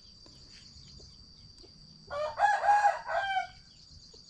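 A rooster crowing once, about two seconds in, the call ending in a falling tail, over the steady high-pitched drone of insects.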